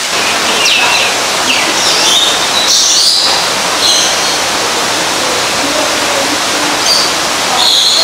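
Birds chirping and calling in short high notes, some sliding, over a steady rushing noise.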